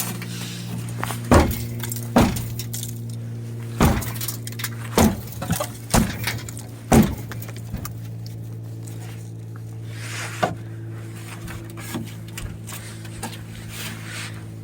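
A string of sharp metallic clanks and bangs, about seven in the first seven seconds and a few lighter knocks after, from the rusted sheet-metal body of an old Ford truck being handled, over a steady low hum.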